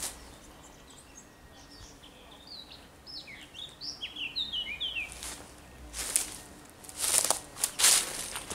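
A small songbird sings a quick run of short, falling chirps, then footsteps scuff through dry leaf litter, loudest near the end.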